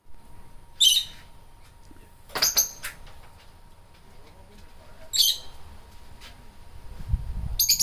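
Pet lovebirds giving four short, shrill chirps a couple of seconds apart, over a faint steady hum; a low rumble builds near the end.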